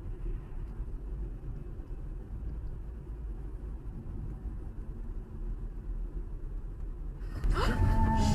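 Steady low rumble of a car driving on the road. About seven seconds in, a louder sound with sliding pitch breaks in.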